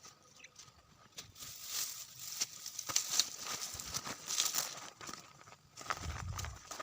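Irregular rustling and crinkling, with a burst of sharp clicks near the end.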